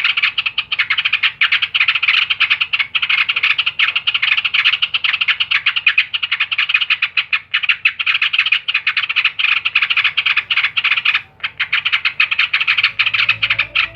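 Yellow-vented bulbul (trucukan) chattering in a fast, unbroken run of short notes, pausing only briefly about eleven seconds in.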